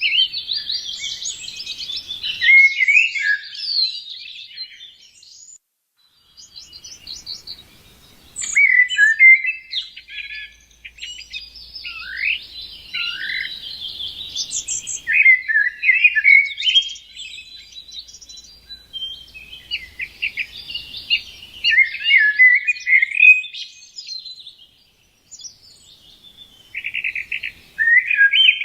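Small birds chirping and twittering in long, busy bouts of quick notes and trills, with short pauses about six seconds in and again near the end.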